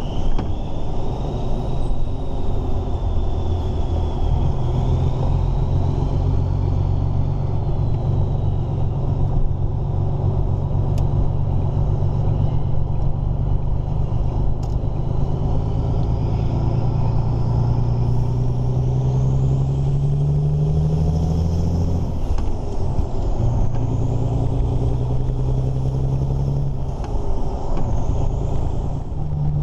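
Volvo F16 truck's diesel engine pulling on the road, its note climbing steadily and then dropping sharply at a gear change about three-quarters of the way in, and again near the end. A faint high whine rises and falls with the engine.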